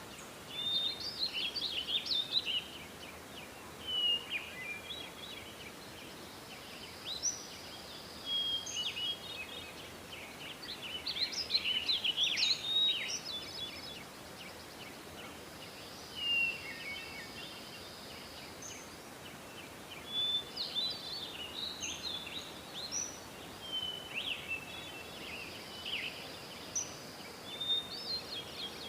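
Several songbirds singing: clusters of quick chirps, trills and short whistles every few seconds over a steady background hiss, the same pattern of phrases coming round again about every ten seconds.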